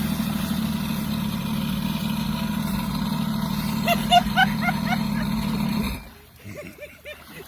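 Jet ski engine running at a steady low drone, which stops about six seconds in.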